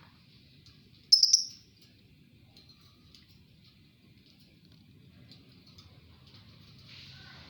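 A lovebird gives one loud, short, shrill call about a second in, with faint scattered chirps and clicks around it.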